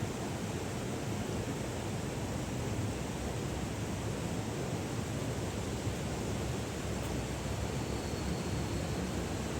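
Steady rushing outdoor background noise with no distinct knocks or crackles.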